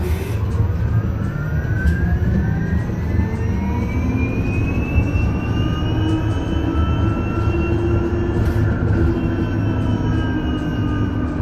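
Isuzu Erga EV electric bus's drive whining as it accelerates: several tones rise together for about seven seconds, then level off and dip slightly near the end, over a steady low road rumble.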